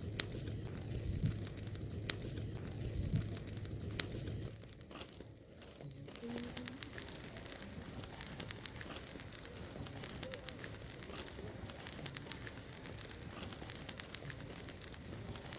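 Wood bonfire crackling with sharp pops over a low rumble of flames. About four and a half seconds in, the rumble drops away, leaving fainter, scattered crackles.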